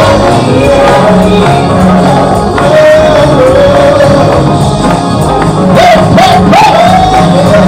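Loud live gospel music: a singer's melody over a band with a steady bass line.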